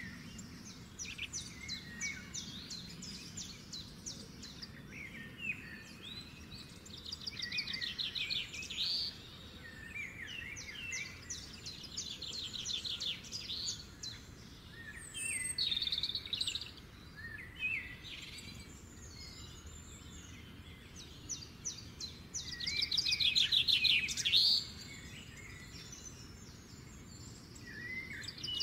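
A songbird singing: a series of short phrases of chirps and fast rattling trills, the loudest run of trills near the end.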